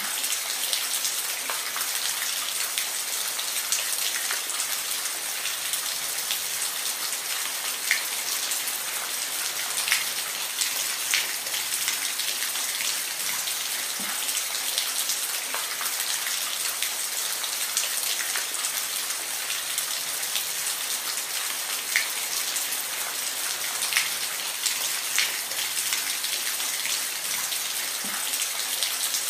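Steady rain, a continuous hiss with scattered individual drops ticking sharply on a surface now and then.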